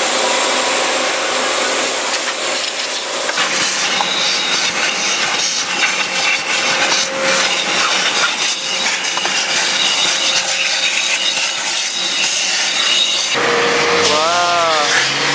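Loud, steady rushing and scrubbing noise from express car wash equipment. It changes character about three seconds in and again near the end.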